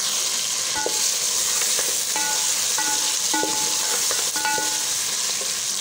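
Mutton and onions with ginger-garlic paste sizzling in hot oil in a metal pot while being stirred with a ladle. The ladle knocks and scrapes against the pot several times, giving short ringing clinks.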